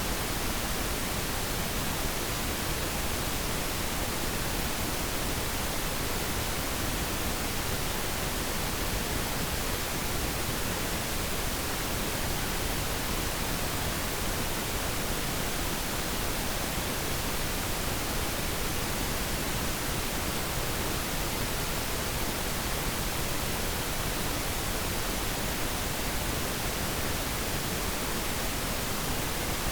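Steady, unchanging pink noise: an even hiss with less treble than white noise, spread evenly from the bass to the highs.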